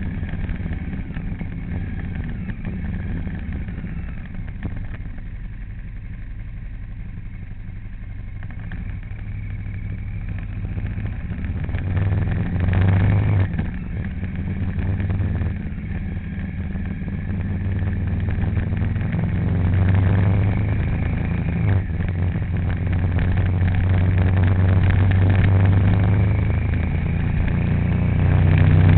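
A vehicle engine running while driving, a steady low hum that swells and eases several times as the vehicle speeds up and slows.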